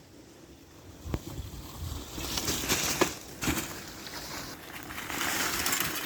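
Wind rushing over the microphone with crunching and rattling from a mountain bike riding through snow, swelling twice.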